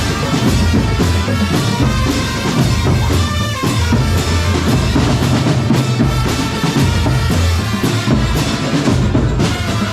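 Drum corps music: bass and snare drums playing a steady beat under sustained melody instruments.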